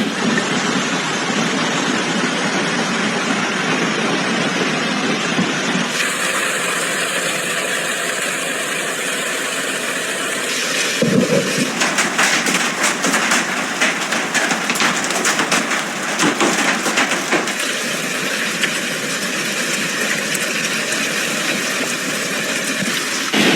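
Heavy storm rain making a steady hiss, cut across several clips, with a stretch of dense sharp taps in the middle like hail striking hard surfaces.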